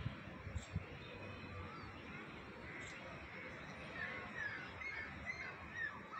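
Birds calling: a run of short, quick chirping notes that grows busier after about four seconds, over a faint steady background hiss.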